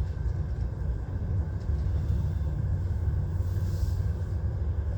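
Heavy goods vehicle's diesel engine running, a steady low rumble heard from inside the cab.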